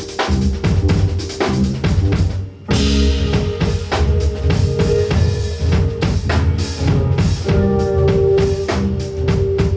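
A band playing live, the drum kit prominent with kick and snare hits over bass and held pitched notes from another instrument. The playing dips briefly about two and a half seconds in, then carries on.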